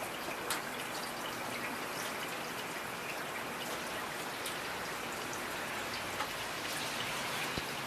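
Steady rain falling, with scattered individual drops pattering close by.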